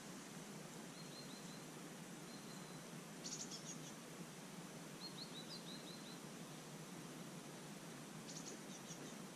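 Small birds chirping in several quick runs of short high notes over a steady, faint background of outdoor noise.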